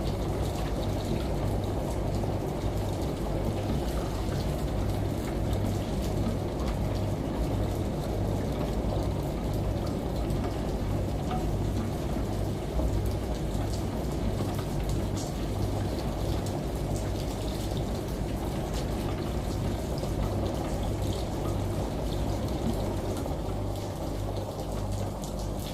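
Steady rain and running water, like a shower, layered with a washing machine running, whose low hum pulses about twice a second.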